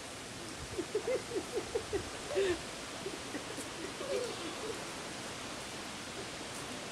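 A bird calling a fast series of short, low notes, about four a second, in two runs, the second shorter and fainter.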